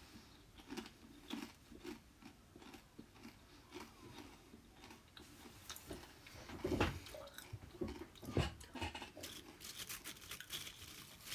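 Irregular crunching and knocking as a wheelbarrow loaded with dirt is pushed along on foot, with a couple of louder thumps about seven and eight and a half seconds in.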